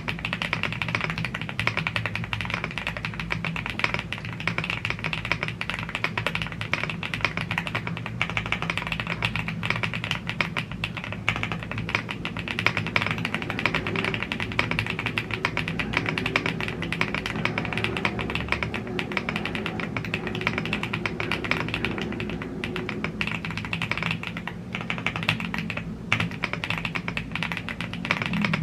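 Continuous fast typing on a YUNZII AL75 gasket-mounted aluminium mechanical keyboard with Blue Grey tactile switches and double-shot PBT keycaps: a dense stream of keystroke clacks, over soft background music.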